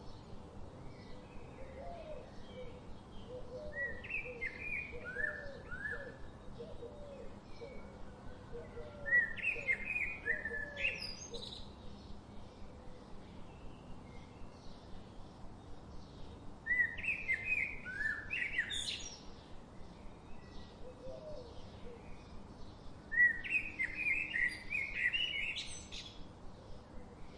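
Birdsong: bursts of quick chirping phrases about every six to seven seconds, and a lower series of short repeated calls through the first half, over a steady background hiss.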